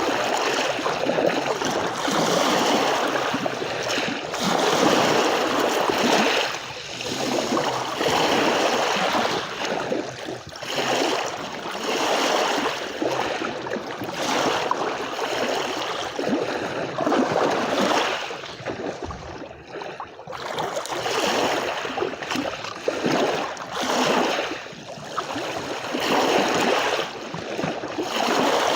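Sea waves washing onto a shore, a continuous rush of water that swells and ebbs every second or two, with a short lull about two-thirds of the way through.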